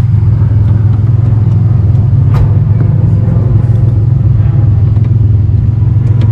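Steady low engine and road rumble inside a moving car, with a few light clicks.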